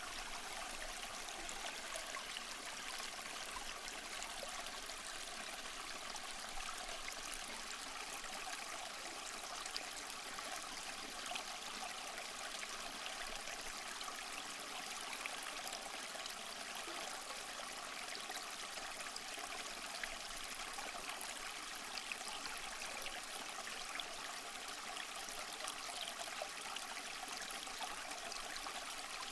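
Small mossy waterfall: water splashing and trickling over rocks in a steady, even rush.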